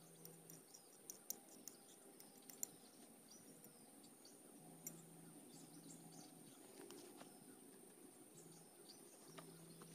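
Near silence: faint background with a steady high-pitched hiss and a few scattered faint ticks.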